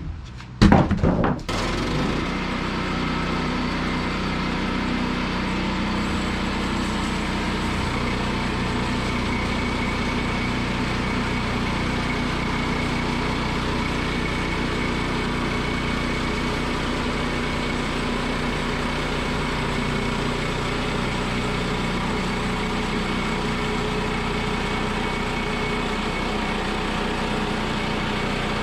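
A few knocks and clatters, then about a second and a half in the small gasoline engine of a portable bandsaw sawmill catches and runs steadily at an even speed.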